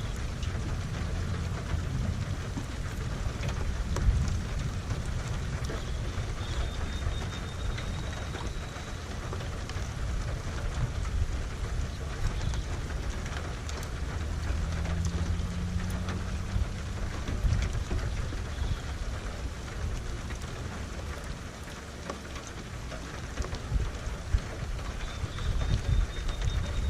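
Steady rain falling, with scattered sharp drop ticks and a low rolling rumble of thunder underneath.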